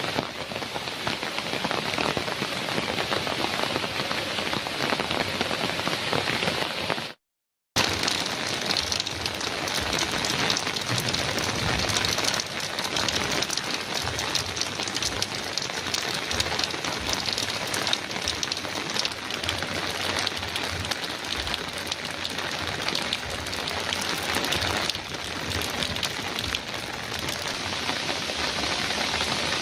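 Heavy rain pattering steadily on a metal roof, dense and even throughout. The sound cuts out completely for about half a second roughly seven seconds in, then resumes.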